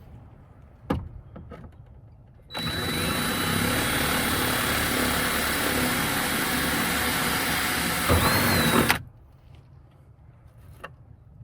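Electric drill running for about six seconds with a large bit, boring a hole through a truck's interior panel; a steady high motor whine over the cutting noise, which starts suddenly and stops suddenly. A single sharp click comes shortly before it.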